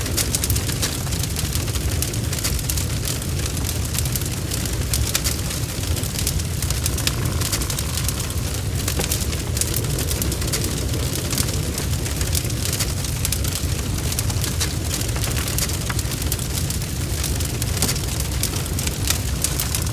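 Wood fire in a fireplace crackling, with dense irregular pops and snaps over a steady low rumble of the flames.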